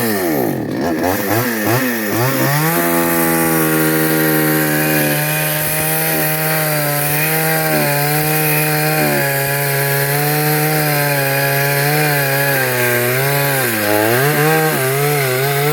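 Petrol chainsaw engine revved up and down a few times, then held at high speed with a wavering pitch as it cuts wood, dipping briefly under load near the end.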